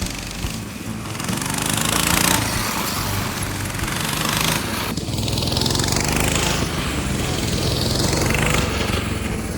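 Coleman BT200X mini bike engines, small single-cylinder four-strokes, running hard in a race. The buzz rises and falls in pitch as the riders work the throttle.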